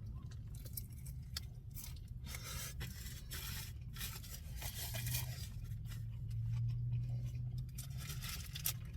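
A person chewing a mouthful of a croissant sandwich with fried chicken and hash brown close to the microphone: irregular soft crunches and wet mouth sounds, with a low hum that swells in the middle.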